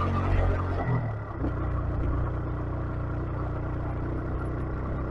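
A 125cc motorcycle engine running. About a second in the revs drop, and it settles into a steady lower note.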